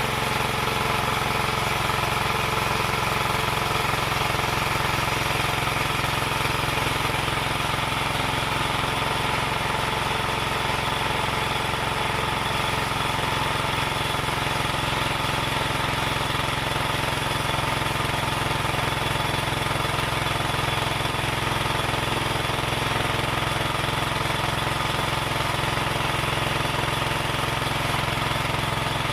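Motor-driven wood saw running steadily, an even machine hum with no breaks or changes in level.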